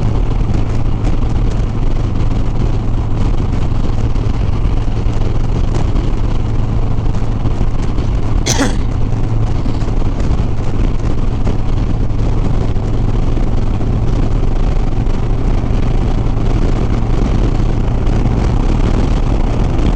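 Harley-Davidson Sport Glide's V-twin engine running steadily at highway speed, mixed with wind and road noise on the rider's microphone. A short sharp noise cuts through about eight and a half seconds in.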